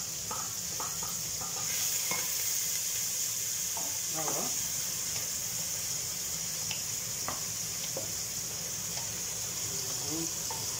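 Meat sizzling as it fries in a stainless steel pot, stirred with a wooden spoon that knocks against the pot now and then.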